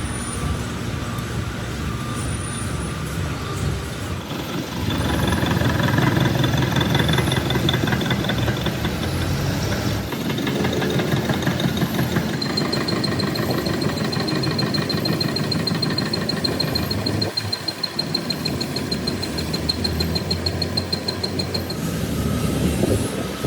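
Metalworking machinery running with a steady, rattling noise and a high whine. The sound shifts several times, about five, ten, twelve and twenty-two seconds in, as the cut or the machine setting changes.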